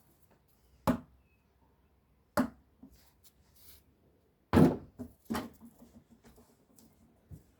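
A basketball thudding as it is shot and bounces: four separate hits a second or more apart, the loudest about halfway through, and a faint one near the end.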